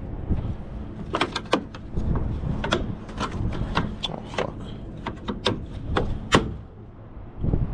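An irregular run of sharp clicks and knocks, about a dozen over five seconds and the last one the loudest, over a low steady rumble.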